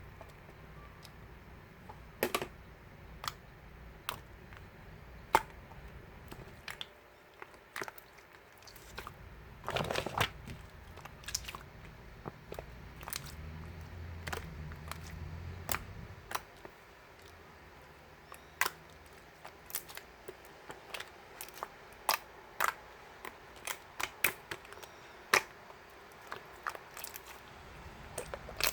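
Irregular sharp clicks and taps, a few dozen of them, coming faster in the last third, with a short low hum in the middle.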